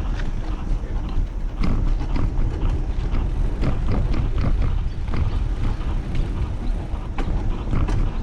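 Wind rumble on a handlebar-mounted action camera's microphone while cycling, with irregular clicks and knocks from the bike and its loose, dodgy camera mount rattling over the path.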